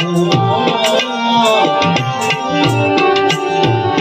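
Instrumental interlude of a devotional bhajan: tabla keeping a steady rhythm under a melodic line played on an accompanying instrument.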